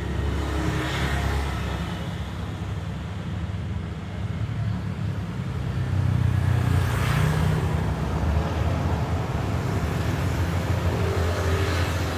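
Road traffic: a steady low rumble with vehicles passing by, three swells of tyre and engine noise about a second in, around seven seconds in and near the end.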